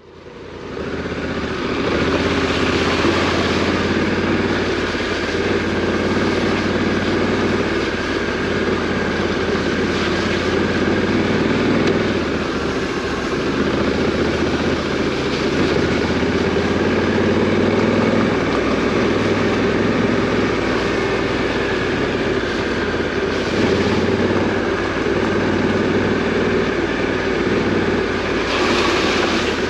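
Adventure motorcycle's parallel-twin engine running under way, its revs drifting gently up and down, over a steady rush of noise. It fades in over the first second.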